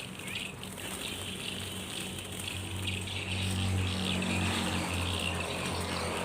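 Small birds chirping repeatedly over a steady low hum that grows stronger about halfway through.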